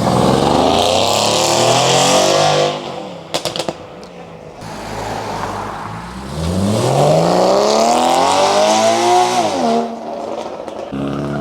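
A performance car's engine accelerating hard twice, each time rising steadily in pitch and then cutting off. A quick run of sharp cracks comes just after the first pull, about three seconds in.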